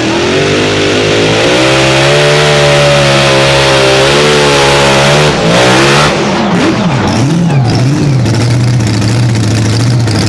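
Pulling tractor's engine running at high revs under load with its pitch wavering, then backing off about six seconds in, its pitch falling and swooping, and settling to a steady lower idle.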